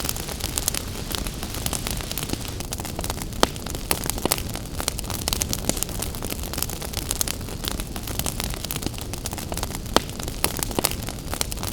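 Wood fire crackling in a fireplace: many sharp snaps and pops every second over a steady low rush, with a louder pop about three seconds in and another near ten seconds.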